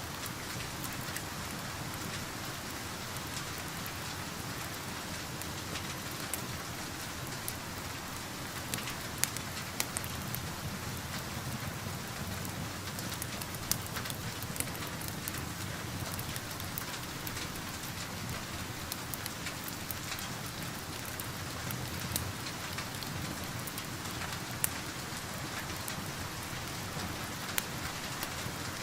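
Steady rain hiss mixed with a crackling wood fire: scattered sharp pops stand out every few seconds.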